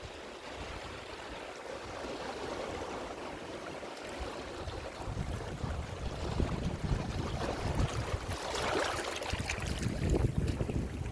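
Ocean waves washing onto a shore, a wave breaking louder with a rising hiss about eight to nine seconds in, over a low wind rumble on the microphone.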